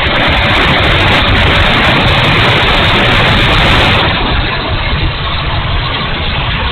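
70mm electric ducted-fan RC jet (E-flite F-16) in flight, a steady rushing fan noise with a low, uneven rumble beneath, louder for the first four seconds and then easing off somewhat.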